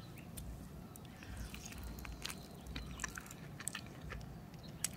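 A person chewing a bite of saucy hot chicken wing: faint, scattered wet mouth clicks.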